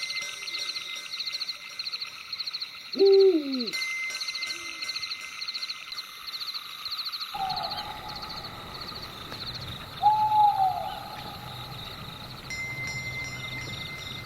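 Owl calls, two short falling hoots about three and ten seconds in, over a steady fast-pulsing night chorus. A low hiss comes in abruptly about seven seconds in.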